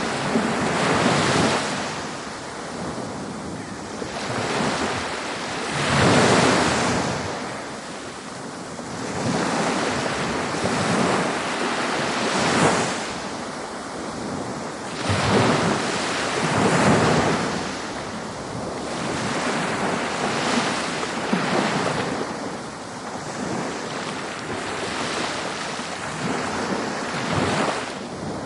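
Ocean waves breaking on a beach, a steady wash of surf that swells and falls back as each wave comes in, with louder breakers every few seconds.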